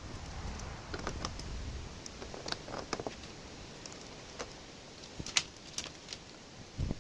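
Light, irregular clicks and rustling of electrical wires and small connectors being handled and tucked back into place.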